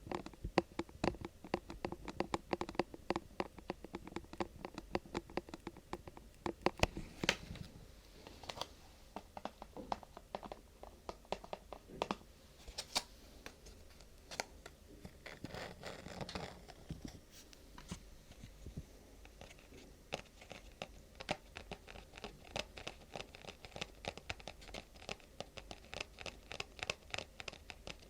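Close-miked ASMR handling of vinyl, paper or plastic: fingertips scratching and crinkling the material in a dense run of small clicks and rustles. The sounds are busier in the first several seconds and again near the end.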